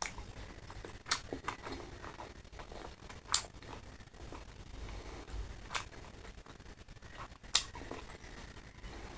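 Eating sounds close to the microphone: quiet chewing broken by sharp clicks and taps every second or two.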